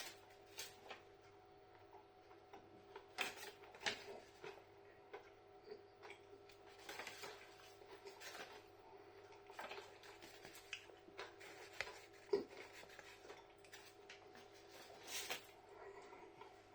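Faint, scattered clicks and soft mouth noises of a man chewing a piece of caramel sea-salt chocolate, over a low steady hum.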